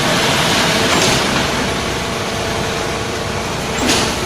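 Engine of a mobile concrete mixer with pump running steadily, with a brief rushing swish about a second in and again near the end.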